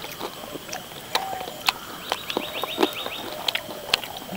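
A person chewing crisp fried chicken, making irregular sharp crunching clicks. Behind it runs a thin, steady, high drone, and a short rapid chirping trill comes a little after two seconds in.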